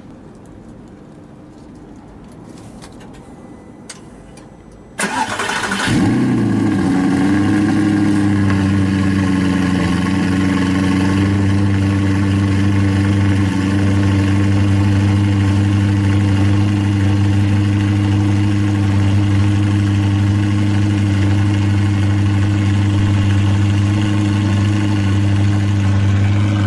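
Audi R8's 4.2-litre V8, fitted with an Armytrix aftermarket exhaust, cold-started. After a few quiet seconds it fires suddenly about five seconds in, flares briefly, then settles into a loud, steady cold-start fast idle.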